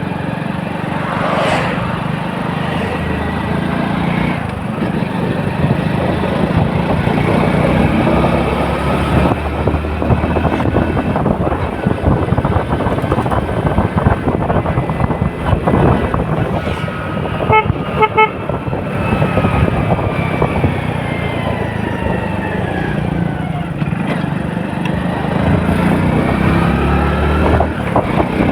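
Road traffic: vehicle engines running and passing by, with a horn beeping in several quick short toots about two-thirds of the way through.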